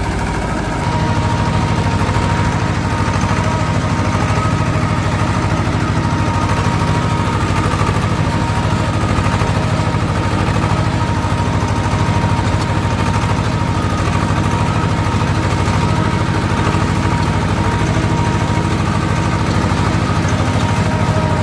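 Swaraj tractor's diesel engine running steadily under a fast, even chug, with a thin high whine over it. It gets louder about a second in.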